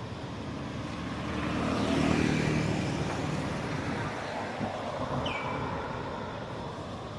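A road vehicle passing by: its engine noise swells to a peak about two seconds in, then fades away. A short high-pitched falling chirp follows near the end.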